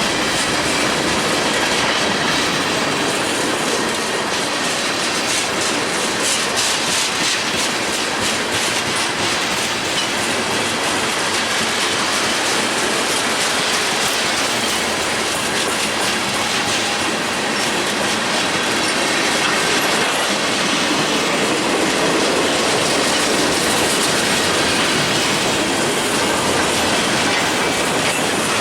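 Freight cars of a mixed manifest train rolling past at steady speed, with continuous wheel-on-rail noise and clickety-clack.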